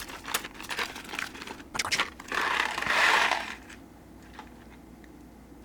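Buncha Crunch candy packaging being opened by hand: crinkling and small clicks, then a louder rustle lasting about a second, after which it goes quiet.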